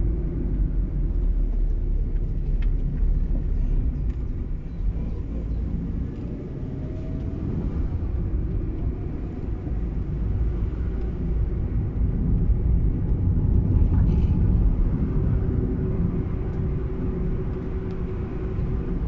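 A car on the move: steady low engine and road rumble, with a faint steady hum joining in about three-quarters of the way through.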